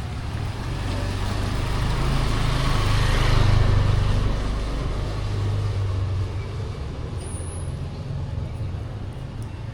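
A motor vehicle passes on a wet road in heavy rain: its engine hum and tyre hiss swell to a peak about three and a half seconds in, then fade, over the steady hiss of the rain.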